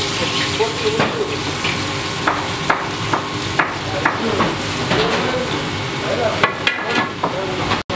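Food frying in hot oil, a steady sizzle with scattered sharp clicks and knocks like utensils against a pan.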